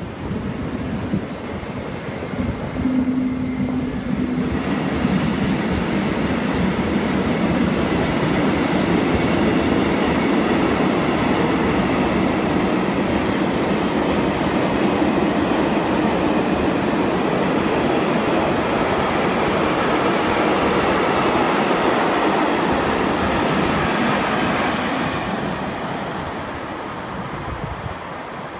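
A train passing along the line: a loud, steady rushing rumble of wheels on track that swells about four seconds in, holds for about twenty seconds, then fades away near the end.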